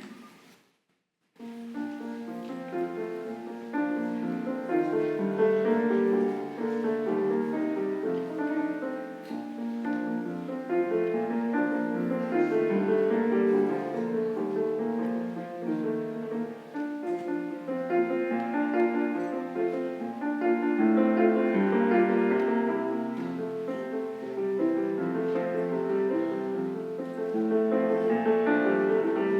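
Solo piano music, a classical-style piece played as a musical offering, beginning after a brief silence about a second in.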